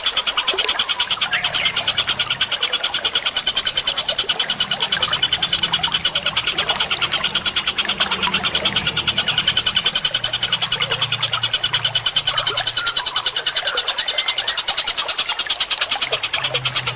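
Bird-call training recording of mixed songbird calls: a rapid, evenly repeated train of high chirps, about ten a second, over a low rumble that comes and goes.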